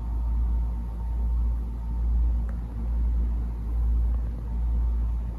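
A low, steady rumble that swells and fades every second or so, with a faint steady tone above it and a single click about halfway through.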